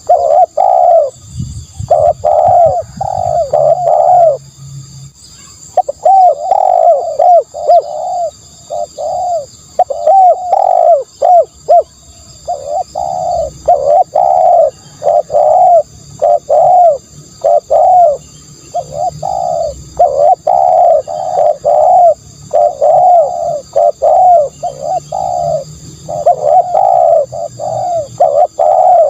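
Spotted dove cooing: quick runs of short coo notes, several a second, in phrases broken by brief pauses, as used for a decoy call.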